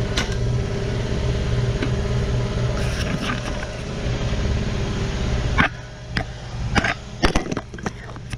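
A motor-driven machine running steadily, which cuts off suddenly about five and a half seconds in. It is followed by several sharp metal clicks and knocks as clamps are set on the steel tubing.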